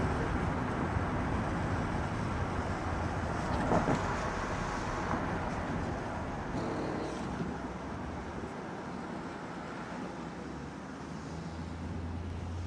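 A moving vehicle: a steady low engine hum under an even rush of travel noise.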